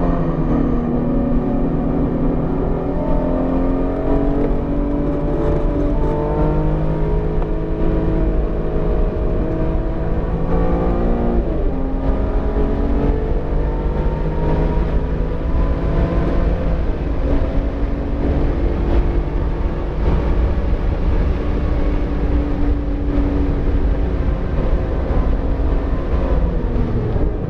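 BMW E46 M3's 3.2-litre straight-six at speed on track, its pitch climbing under throttle and dropping back several times as it shifts and brakes, over road and wind noise. The engine is freshly built and still being broken in, so it is kept below 7,000 rpm.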